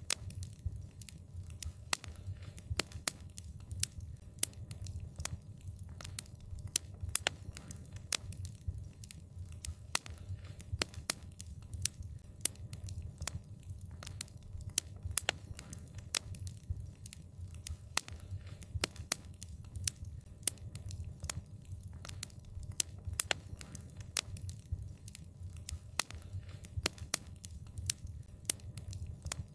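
Wood fire burning with a continuous low rumble and dense, irregular crackles and pops throughout.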